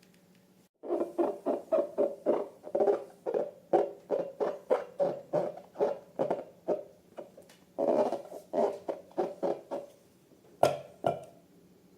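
Slime being squished and squeezed by hand: a rapid series of short wet squelches, about three a second, starting about a second in, pausing briefly, then a second run and two last squelches near the end.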